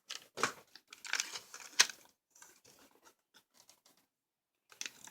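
Diecast toy packaging handled and torn open: crinkling, tearing noises in short bursts during the first two seconds, then a few faint clicks and another brief rustle near the end.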